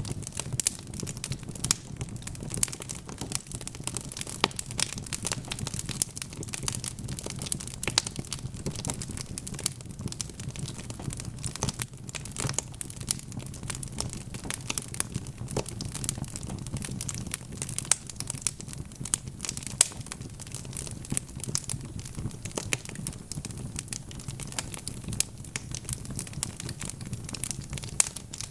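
Wood fire burning in a fireplace: dense, irregular crackling and popping of logs over a steady low rumble of the flames.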